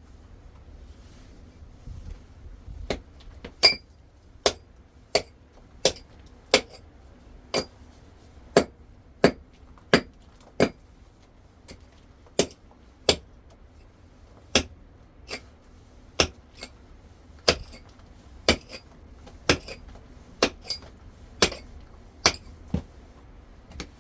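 A long run of sharp knocks or strikes, roughly one or two a second with a short pause midway, some with a brief metallic or glassy ring.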